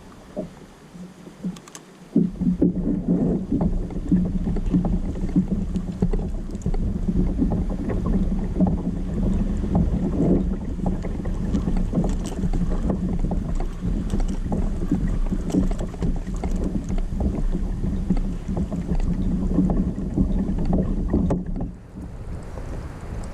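Kayak out on the sea: water splashing and lapping against the hull, with wind rumbling on the microphone. A steady low hum starts about two seconds in and stops near the end.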